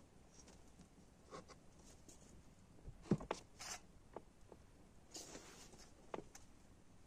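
Scattered small knocks and rustling of things being handled in a small room, with one sharper knock about three seconds in.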